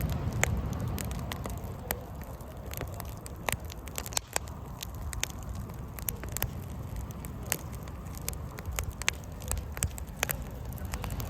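Wood campfire crackling in a Coleman Fire Disc fire pit: many sharp, irregular pops and snaps over a steady low rumble.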